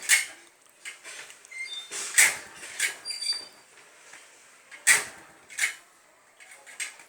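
Yamaha RX 135 two-stroke motorcycle being kick-started on a cold start, the engine not catching. The kick lever clunks three times, each a pair of knocks about half a second apart, with no running engine between the kicks.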